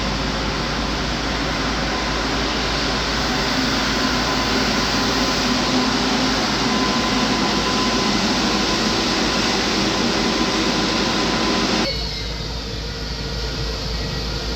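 Railjet train at the station platform, making a loud, steady running noise with faint steady whining tones. The sound drops abruptly about twelve seconds in.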